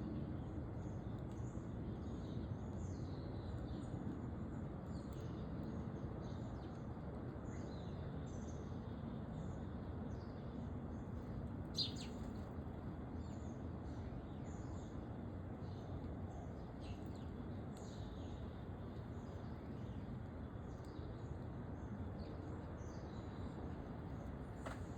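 Small songbirds chirping and calling again and again over a steady low background noise, with one sharp click about halfway through.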